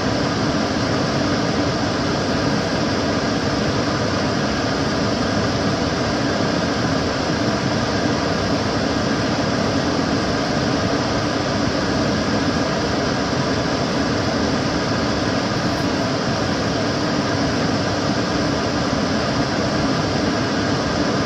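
Kitchen cooker hood extractor fan running steadily: a constant rush of air with a low hum.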